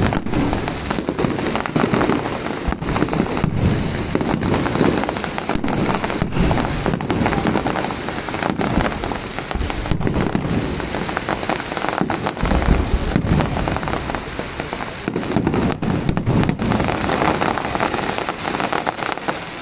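Aerial fireworks display: a dense, continuous barrage of crackling and sharp pops with low booms mixed in.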